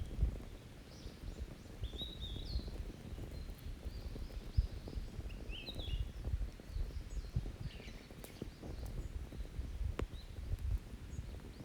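Open wood fire on the ground, crackling with a low rumble and frequent small pops, one sharp pop about ten seconds in. Small birds chirp in short high notes, several groups in the first half.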